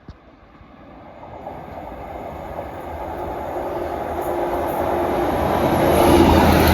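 Two coupled Class 153 diesel railcars approaching and passing through a station, the rumble of engines and wheels on the rails growing steadily louder and peaking near the end.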